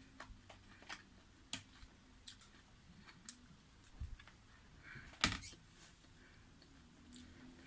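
Scattered light clicks and taps of eating utensils against dishes during a meal, with a dull thump about four seconds in and one louder clink just after five seconds.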